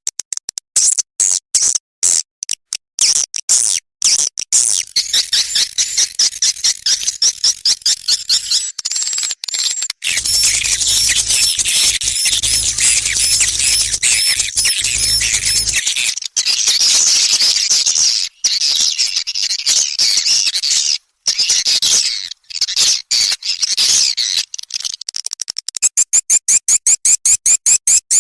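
Swiftlet lure track: dense, rapid high-pitched swiftlet chirps and twitters, layered and repeated, the kind played in swiftlet houses to call in and roost the birds. A low hum runs under the calls for several seconds in the middle, and near the end the chirps come fast and evenly spaced.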